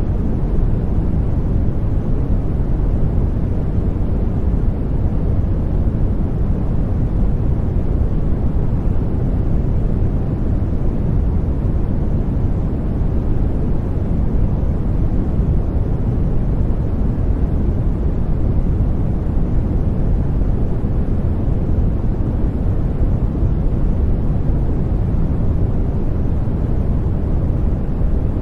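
Continuous sleep-aid noise for soothing a baby: a steady, deep rushing hiss that stays the same throughout, heavy in the low end with little treble.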